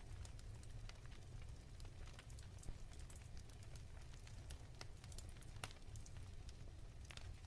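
Wood fire crackling softly in a fireplace: scattered sharp pops and snaps over a low steady rumble, with a louder pop just under three seconds in and another about halfway through.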